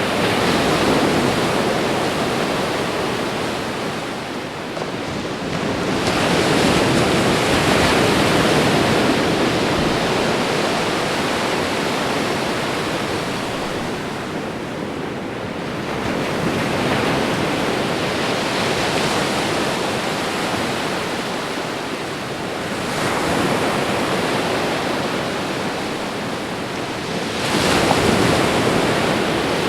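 Ocean waves crashing, one after another: a steady roar of surf that swells as each wave breaks and ebbs as it washes back, about five waves in half a minute.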